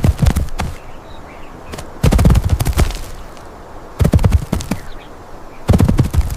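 Turkey gobbling: four rapid rattling gobbles, about two seconds apart.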